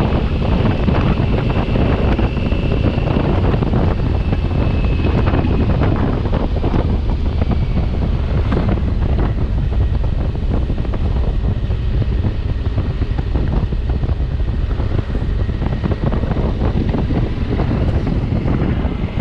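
Wind buffeting the microphone at road speed on a Honda Africa Twin motorcycle, a steady loud rumble with the engine running underneath.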